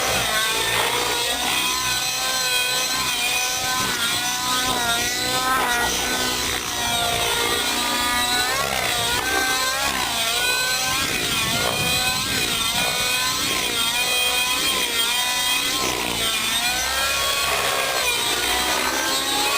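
Nitro RC helicopter flying: its glow engine and rotors whine, the pitch rising and falling over and over as it manoeuvres.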